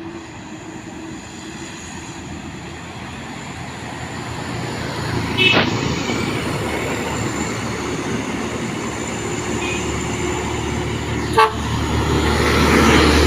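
Heavy truck's diesel engine labouring up a steep climb, a steady low drone that grows louder as it comes closer. Two short horn toots sound, about five seconds in and again near the end.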